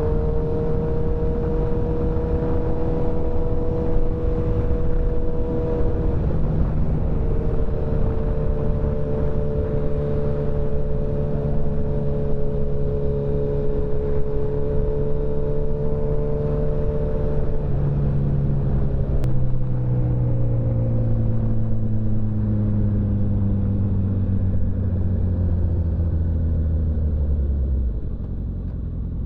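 Motorcycle engine running at steady cruising speed under a constant rush of riding noise, with a brief dip near 6 s as a gear is shifted. From about 18 s the engine note falls slowly as the bike slows down, and it drops off further near the end.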